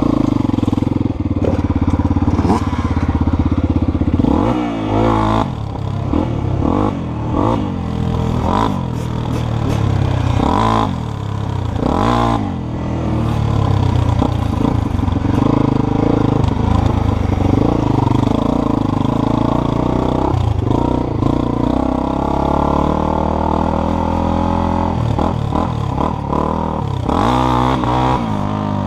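Dirt bike engine running under way on a trail, its revs rising and falling again and again as the throttle is worked.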